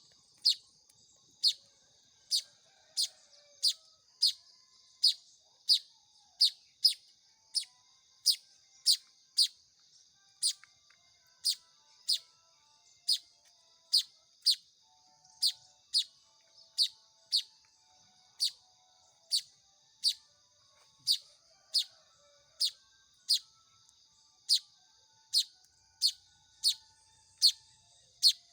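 Weaver bird (manyar) chick calling: short, sharp chirps repeated evenly about one and a half times a second, each falling quickly in pitch.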